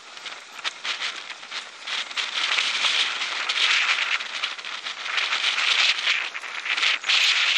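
Dense crackling and rustling of movement through dry undergrowth, growing louder about two seconds in.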